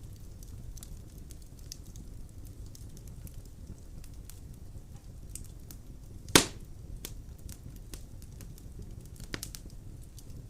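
Wood fire burning in a stove-fireplace, with a low steady rumble and scattered faint crackles. One loud sharp pop comes about six seconds in and a smaller one near the end.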